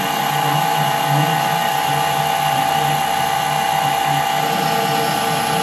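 Metal lathe running steadily during internal screw cutting, a constant whine from its motor and gear train with an uneven low rumble beneath.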